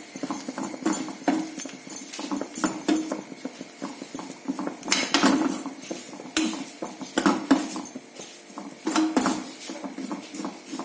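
A spoon knocking and scraping against a pan in irregular strokes, about one or two a second, as onions and masala are stirred and sautéed.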